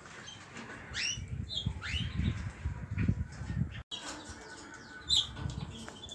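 Small pet birds chirping: a few quick upward-sweeping chirps and short high calls, with low bumping and rustling underneath.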